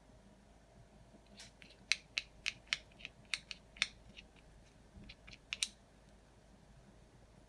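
Small hard objects clicking and tapping: about fifteen sharp clicks, irregularly spaced, over roughly four seconds.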